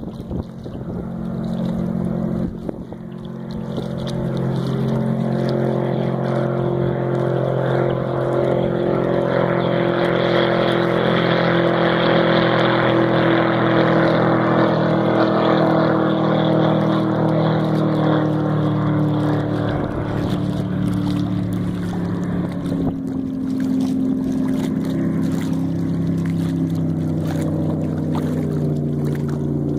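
454 MerCruiser 7.4 L big-block V8 running through an open Corsa Captain's Call exhaust as the boat makes a fly-by. It grows louder over the first few seconds and is loudest near the middle, and its pitch drops a little later on as the boat goes past.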